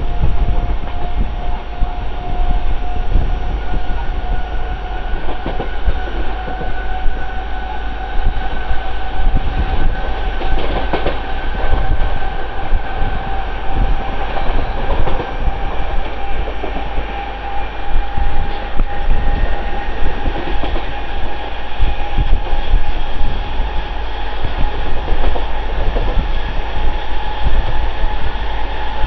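Mumbai suburban electric local train running fast, heard from its open doorway: wheels rumbling and clattering on the rails under a steady motor whine that creeps slowly up in pitch, with wind buffeting the microphone.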